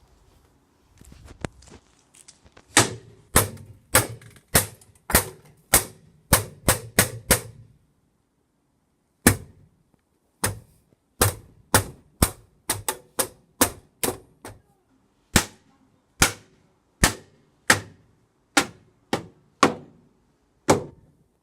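A vacuum cleaner pole whacking a cardboard box: a long run of sharp smacks, about two a second, with a short pause about eight seconds in before the blows resume.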